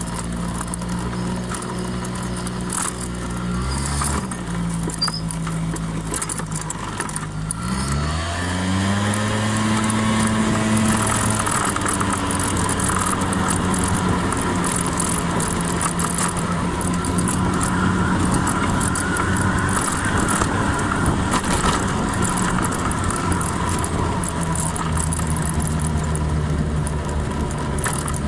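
Honda 50 cc scooter engine running. Its pitch dips and rises about four seconds in, then climbs about eight seconds in as it revs up and accelerates, and after that it holds steady under a rushing wind and road noise.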